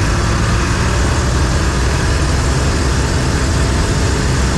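John Deere 4400 combine running steadily, engine and threshing mechanism turning with a constant low rumble. The threshing cylinder is turning at only about 350, well below the roughly 600 it should run at.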